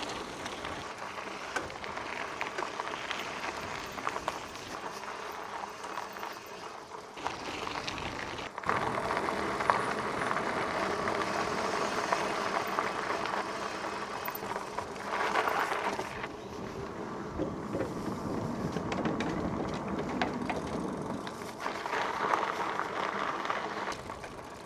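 Bicycle ridden at speed: a steady rush of tyre and wind noise with scattered clicks and rattles from the bike. It gets louder about eight and a half seconds in.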